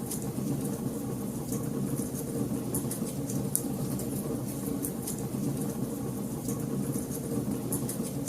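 Wood fire crackling in a fireplace: a steady low rumble from the burning, with frequent small, sharp pops and snaps scattered irregularly through it.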